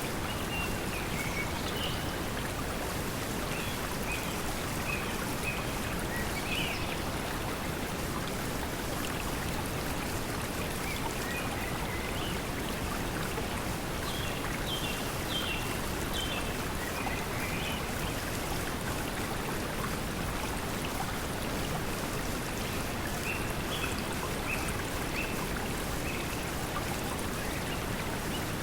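Steady pink noise blended with running water, with brief high bird chirps scattered through it.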